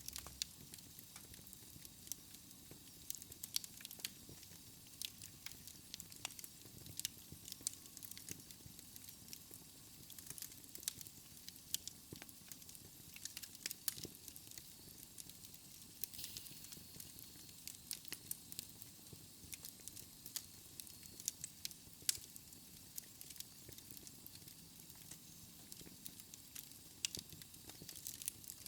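Wood fire in a fireplace crackling, with frequent sharp irregular pops and snaps over a soft steady hiss.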